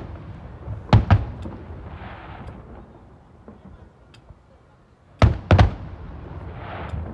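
Fireworks shells bursting overhead in loud, sharp booms: a pair about a second in and two or three more just past five seconds, each group trailed by a softer hiss.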